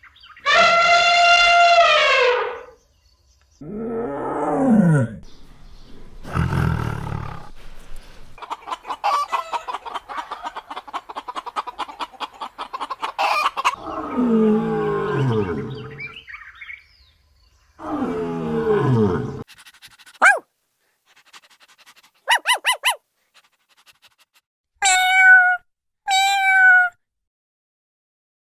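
A string of calls from several different animals, one after another with short gaps. There are long pitched cries, lower calls that fall in pitch, and a run of rapid pulsed calls in the middle. Near the end come two short matching calls.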